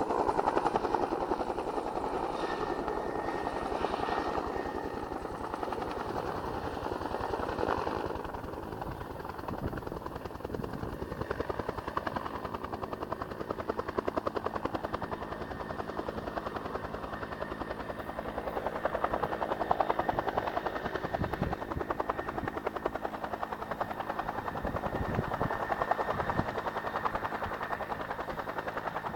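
Firefighting helicopter flying nearby with a steady rotor chop, swelling and fading in loudness as it moves about.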